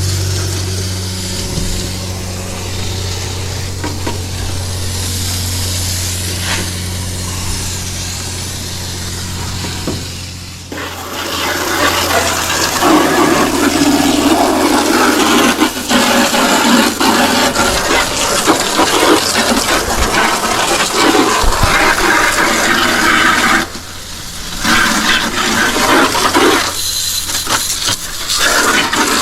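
Water spraying onto an air conditioner condenser's coils to wash them out from the inside, an even rushing spray that gets louder about ten seconds in and breaks off briefly twice near the end. A steady low hum runs under the first part.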